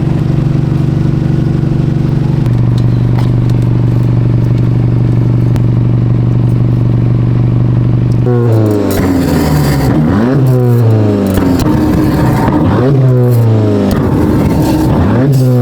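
Car engine idling steadily, then from about eight seconds in revved hard over and over, about five quick revs rising and falling, to fire coloured flames from an exhaust coated with Dragon's Breath paste.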